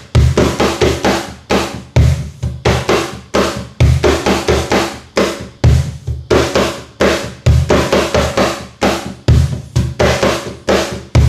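Cajon played fast in a repeating rhythm: a deep bass stroke about every two seconds, each followed by a quick run of sharp snare slaps and lighter tip strokes.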